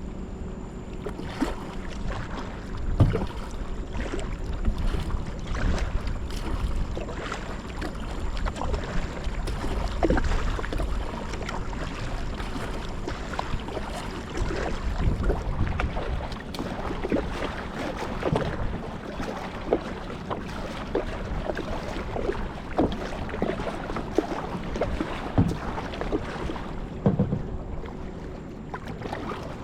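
Water sloshing and splashing around a glass-bottom kayak, with many short, irregular knocks, and wind rumbling on the microphone.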